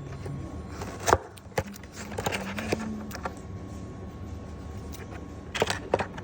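Scattered sharp clicks and knocks over a low steady hum: about a second in, a few more shortly after, and a quick cluster near the end.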